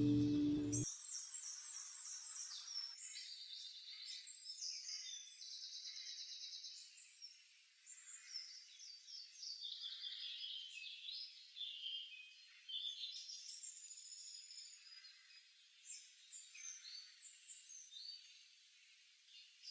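Several songbirds singing and calling over one another, with quick chirps and rapid high trills overlapping throughout.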